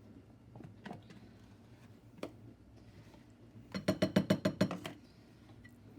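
A utensil clinking and knocking against a mixing bowl: a few single taps, then a quick run of about ten rapid clinks a little after halfway, as Cool Whip is spooned into the dessert mixture.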